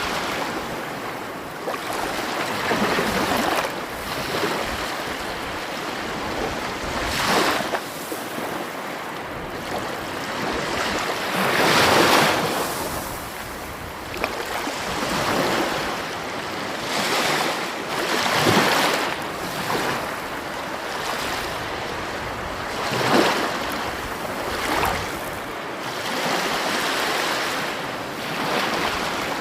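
Sea waves breaking and washing ashore: a continuous rushing wash that surges louder every few seconds, the biggest surge about twelve seconds in.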